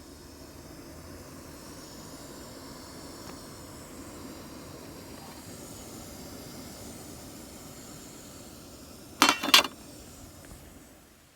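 Steady hissing background noise, then two sharp knocks about a third of a second apart, about nine seconds in.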